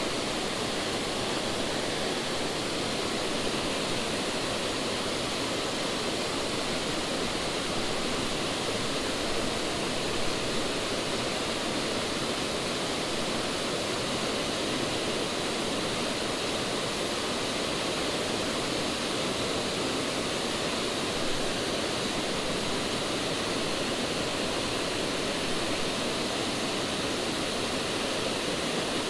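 Creek waterfall pouring into a pool: a steady, even rush of falling water.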